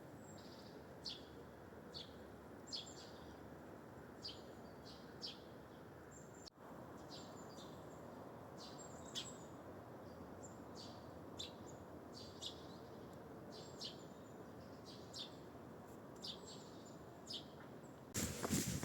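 Small birds calling with short, high chirps, about one every second, some in quick pairs, over a steady background hiss. Near the end, a loud scuffing noise cuts in.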